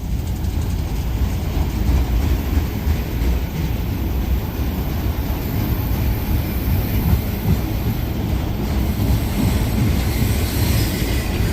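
A train rolling past, its wheels rumbling steadily on the rails.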